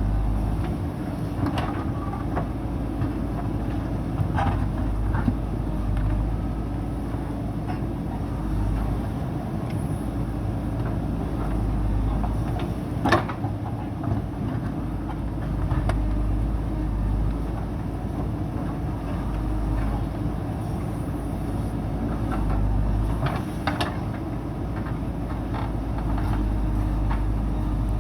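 JCB backhoe loader's diesel engine running under working load, swelling and easing every few seconds, with a few sharp metal clanks, the loudest about thirteen seconds in.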